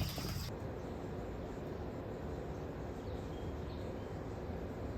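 Outdoor insect buzz that cuts off suddenly about half a second in, leaving a steady low hum of room tone.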